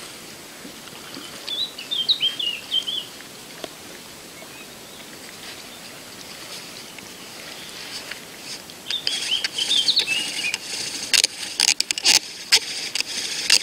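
A small songbird chirping in two short warbling phrases. From about nine seconds in, a dry rasping and rustling starts, with sharp clicks about twice a second near the end.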